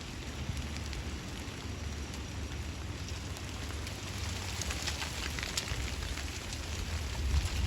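Hail falling, mostly pea-sized stones with some up to dime size: a dense hiss of many small sharp ticks as the hailstones strike, growing thicker about halfway through, over a steady low rumble.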